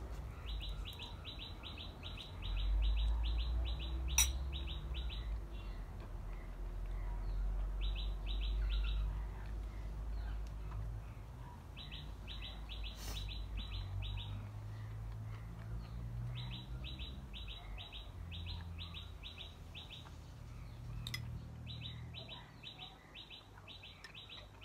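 A small bird chirping in rapid high trills, about ten notes a second, in repeated bursts of one to five seconds, over a low rumble.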